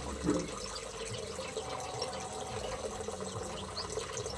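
Steady running, trickling water, with faint short chirps of small aviary birds over it.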